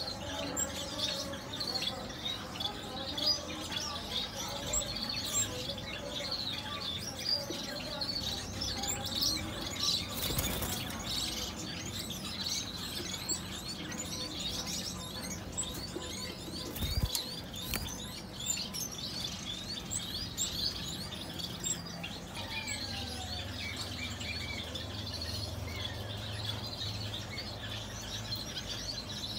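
Many small cage birds chirping at once, a dense, unbroken chatter of short high calls.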